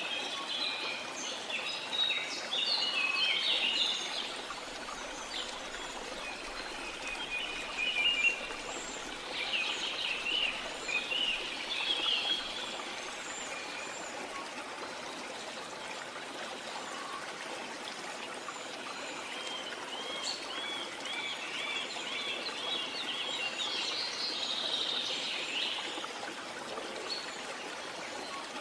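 Birds chirping and trilling in bursts over a steady background of running stream water; the birdsong is busiest in the first dozen seconds and again past the middle.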